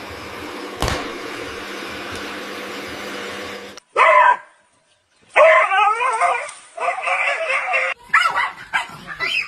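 A dog giving short, wavering cries in several bursts from about four seconds in, after a stretch of steady hiss with a single click.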